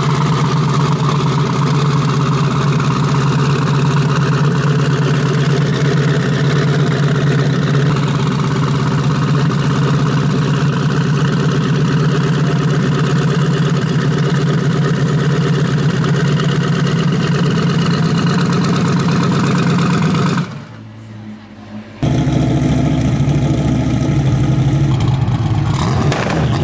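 Car engine running at steady revs with a low, even exhaust note. It breaks off for about a second and a half around twenty seconds in, then returns, and the revs rise near the end.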